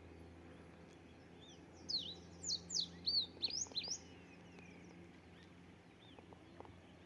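A songbird singing: a quick run of about ten sharp, high chirps, some rising and some falling, about two seconds in, over a faint steady low hum.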